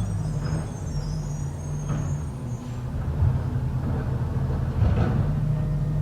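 Garbage truck engine running steadily, with a few faint knocks over the hum.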